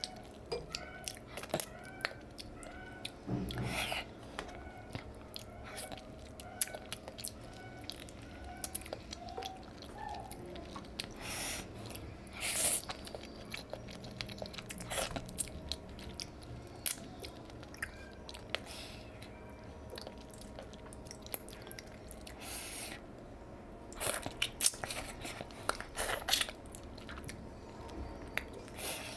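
A person chewing and biting rice and curry close to the microphone: wet mouth sounds with irregular smacks and crunches. The loudest clusters come around the middle and again near the end.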